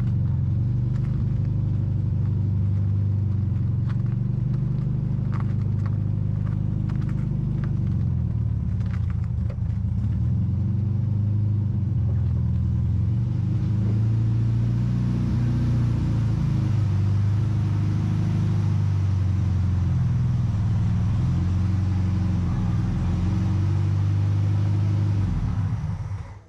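Air-cooled flat-four engine of a 1972 VW Super Beetle running on a short test drive, its pitch rising and falling as the revs change.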